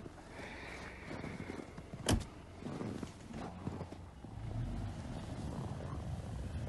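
Subaru car driving slowly forward through snow, its engine a low rumble that grows louder about four and a half seconds in. One sharp click about two seconds in.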